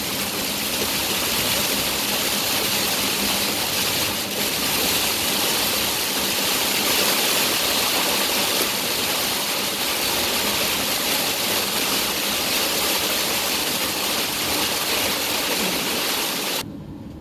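Heavy rain on a moving car, with tyres hissing on the flooded road: a loud, steady wash of noise. It cuts off suddenly near the end.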